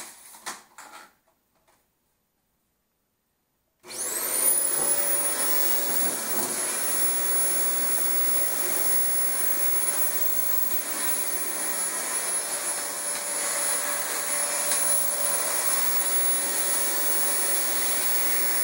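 A few light handling knocks, then a Dyson DC25 upright vacuum cleaner switched on about four seconds in: its motor spins up with a rising whine and then runs steadily.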